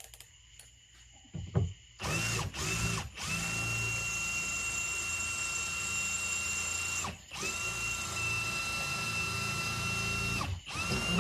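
Power drill drilling out a stripped screw on a boat fuel tank's sending unit. It starts in two short bursts, then runs with a steady whine for about four seconds, stops briefly, and runs for about three seconds more before winding down.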